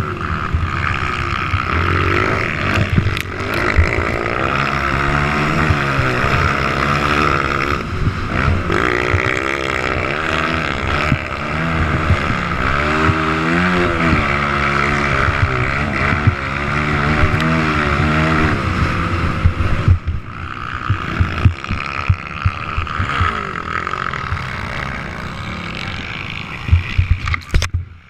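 Motocross motorcycle engines revving, their pitch climbing and dropping over and over as the bikes accelerate and back off around the track. A few sharp knocks come near the end.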